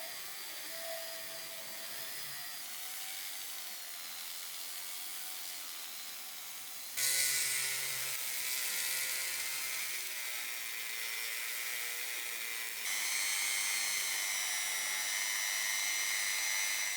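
Small high-speed rotary tool running steadily with a high whine, working on scale-model truck parts; its pitch and loudness step up about seven seconds in and again about thirteen seconds in, as the speed or load changes.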